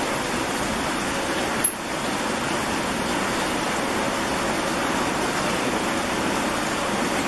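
Steady rushing noise, with one brief sharp high sound about one and a half seconds in.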